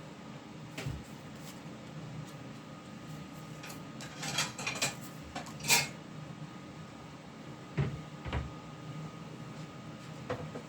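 Tarot cards being handled on a table: a run of crisp card rustles and clicks in the middle, with a few dull knocks as cards or hands touch down.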